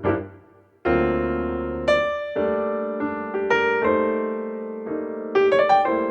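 Piano music: struck chords and single notes, each decaying before the next.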